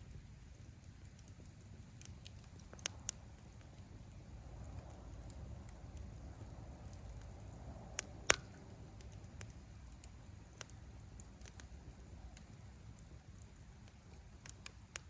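Firewood crackling in a campfire: scattered sharp pops and snaps over a low steady rumble of the flames, with the two loudest pops about eight seconds in.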